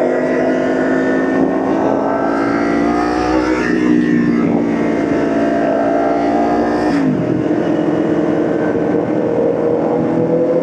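Motorcycle engine running under way, its pitch climbing slowly, then dropping sharply about seven seconds in as the throttle comes off.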